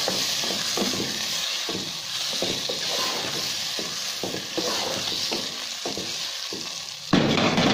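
Diced potatoes sizzling in oil and spices in a pan while a wooden spoon stirs and scrapes them in irregular strokes. A short, louder burst of noise comes near the end.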